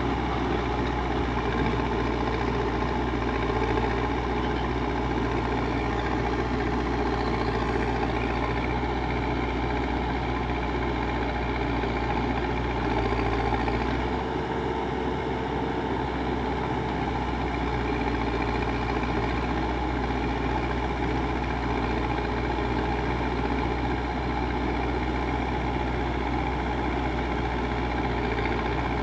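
Backhoe loader's diesel engine running steadily at an even speed.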